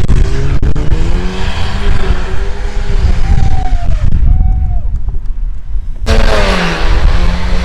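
A car engine revving hard in a burnout, its pitch rising and falling unevenly, with spinning-tyre noise. It eases off about four seconds in, then comes back loud with a burst of hiss about six seconds in.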